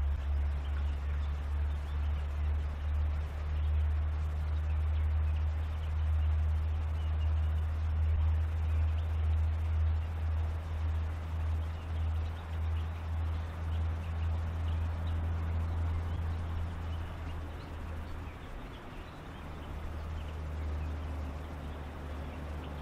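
Reed-bed ambience: a steady low rumble with faint animal calls over it.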